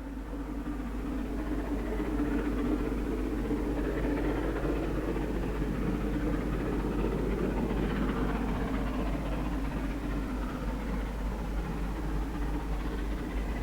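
LMS Royal Scot class three-cylinder 4-6-0 steam locomotive 46100 working a train away from a start, a steady mechanical rumble that fades in over the first couple of seconds.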